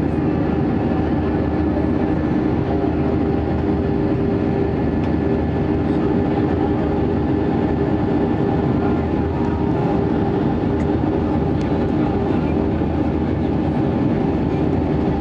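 Steady cabin drone of an Airbus A320's jet engines and rushing airflow, a constant rumble with a few held humming tones through it.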